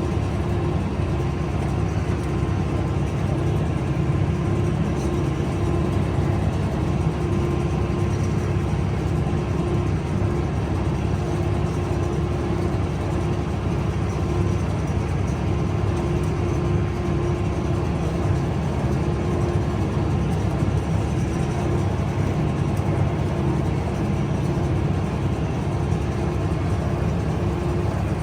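Massey Ferguson 5S.145 tractor running steadily under load, its PTO driving a square baler.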